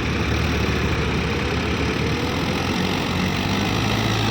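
Diesel tractor engines running steadily, with a slight rise in pitch about a second in.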